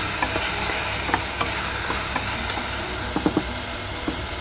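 Shrimp with tomato and onion sizzling in oil in a pot, stirred with a wooden spoon that scrapes and taps against the pot, with a few quick taps just after three seconds in.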